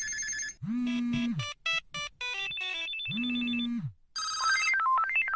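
Cartoon telephone sound effects: electronic ringtone beeps and short musical notes in quick succession, with two low held hums between them and a quick run of rising and falling notes near the end.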